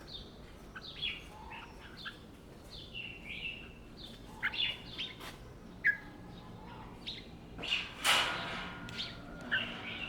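Red-whiskered bulbul singing short, chirpy whistled phrases again and again, with a louder noisy burst about eight seconds in.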